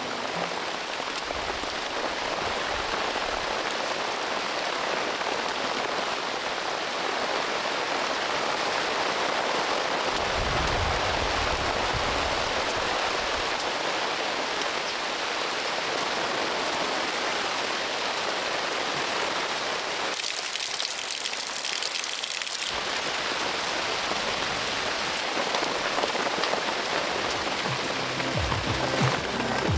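Heavy rain falling steadily, a dense even hiss. About ten seconds in, a low rumble of distant thunder lasts a few seconds. Around twenty seconds in, the rain turns to a brighter, thinner hiss for a couple of seconds.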